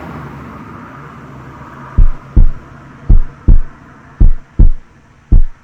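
Heartbeat sound effect: pairs of deep lub-dub thumps about once a second, starting about two seconds in. Before them, a hiss and low hum that fade away.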